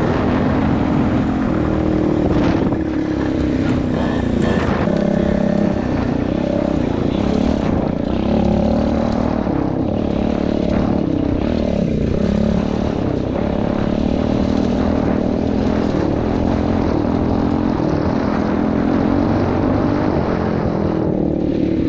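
Pit bike engine running while riding, a steady buzz whose pitch wavers up and down with the throttle.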